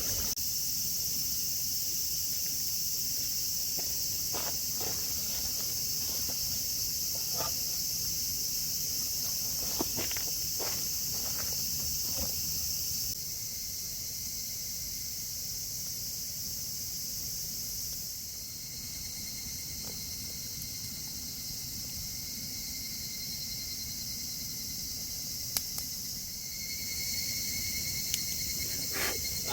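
Insects buzzing steadily in a high-pitched chorus, with a few light clicks and knocks in the first half.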